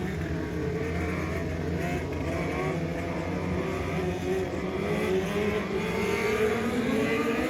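Race car engine running at speed, its pitch climbing steadily over the last couple of seconds as it accelerates.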